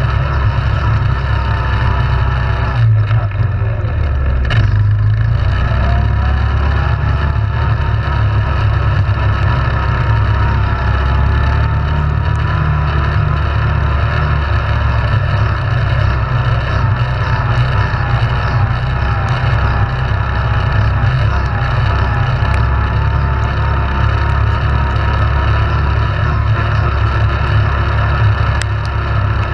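ATV engine running, its revs rising and falling as it rides, over a strong low rumble.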